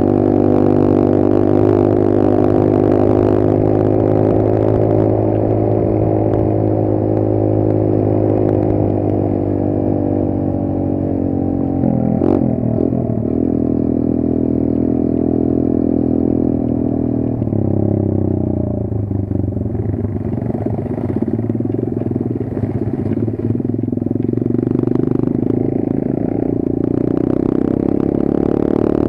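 Kayo 140 pit bike's single-cylinder four-stroke engine running at a steady, slowly drifting pitch, with a sharp knock about twelve seconds in and an abrupt change in the engine note a little past halfway.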